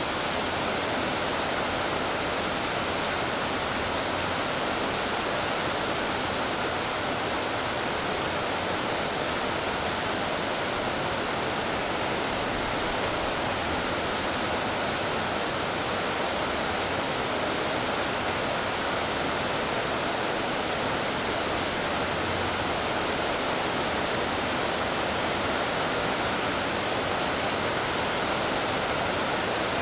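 Steady rain falling on a wet stone balustrade and tiled floor: an even hiss with a few faint, sharp drop ticks.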